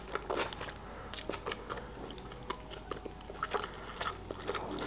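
A person chewing a mouthful of burger and a french fry close to the microphone, with irregular small clicks and mouth smacks.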